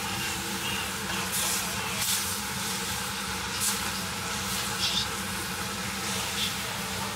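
Beef and wakame seaweed sizzling in a pot while being stirred with a plastic spatula, with a few short scrapes of the spatula against the pot.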